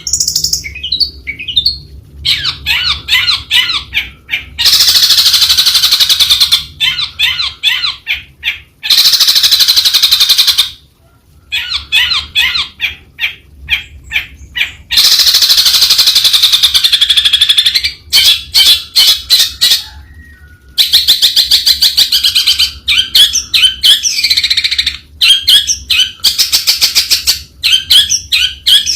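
Long-tailed shrike singing a loud, varied song of rapid chattering and warbling phrases, delivered in runs of a second or more with short pauses between them.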